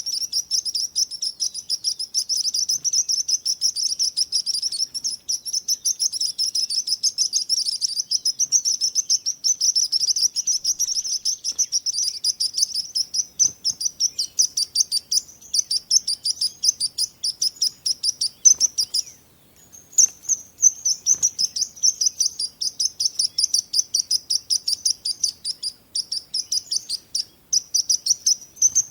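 Birds chirping: a fast, continuous run of high-pitched chirps that pauses briefly about two-thirds of the way through.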